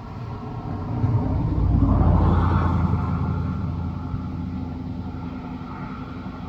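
A road vehicle passing close by, its engine and tyre rumble swelling to a peak about two seconds in, then slowly fading.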